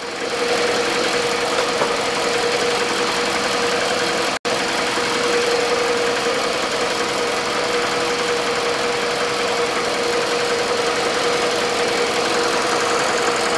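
Toyota 1AZ two-litre four-cylinder engine idling steadily, warmed up, heard under the open hood, with a steady tone running through it. The sound cuts out for an instant about four and a half seconds in.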